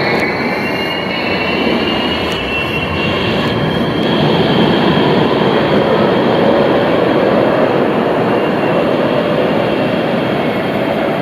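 Tram running past, a steady rail rumble with a high whine that rises in pitch over the first three seconds or so, then holds.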